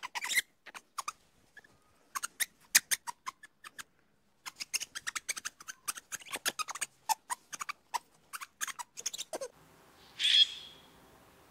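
Ring-tailed lemur giving a rapid, irregular run of short clicks and chirps that stops suddenly. About ten seconds in comes one short, high bird call.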